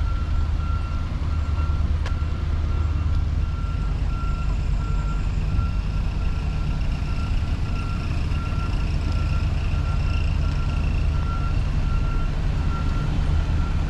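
Reversing alarm on a heavy truck or paving machine, one steady tone beeping at even intervals over the low rumble of its running engine.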